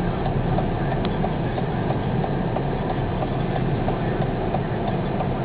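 Dust-storm wind blowing against a car, heard from inside the cabin as a steady rumbling rush, with a light regular ticking.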